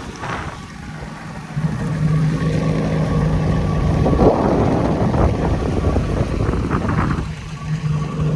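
Motorboat engine running steadily, its low hum coming in about a second and a half in, over rushing wind and water noise.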